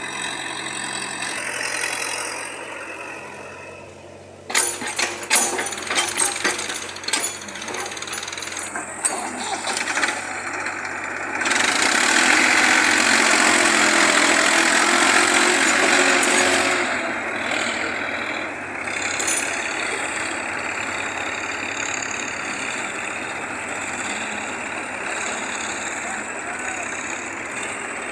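Heavy machinery engines running at work, with a run of sharp metallic clanks a few seconds in and a louder rushing stretch through the middle before the engine noise settles back to steady.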